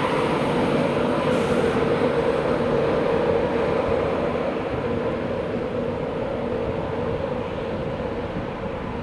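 A train running past: a steady rumble with a held mid-pitched tone, slowly growing quieter over the second half.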